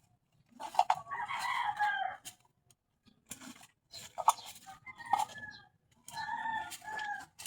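Rooster crowing twice, each crow a long held call, with scattered short clicks and scrapes between the crows.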